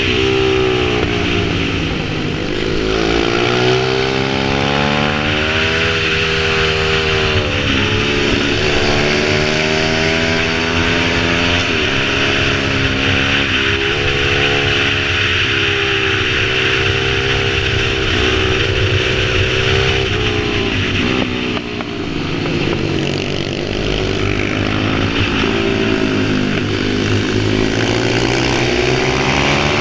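Pit bike's small single-cylinder engine running hard, its pitch rising and falling over and over as the throttle is opened and closed, with a few sudden drops in revs.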